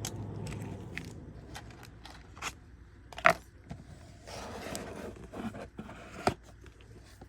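Small items and packaging being handled on a table: scattered sharp clicks and taps, the loudest about three seconds in, with a rustling scrape a little after four seconds.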